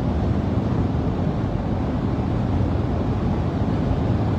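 Steady road and tyre noise heard inside a car's cabin at highway speed on a rain-wet road, an even low rush with no breaks.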